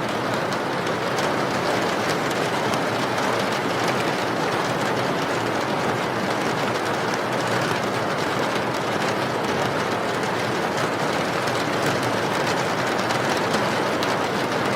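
Steady heavy rain: an even hiss with fine drop ticks running through it.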